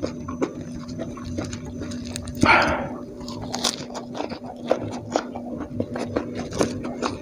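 Close-miked chewing and lip-smacking of a man eating rice, fried chicken and raw lettuce with his fingers, with many small wet mouth clicks. About two and a half seconds in there is a short, loud sucking sound through the mouth. A steady low hum runs underneath.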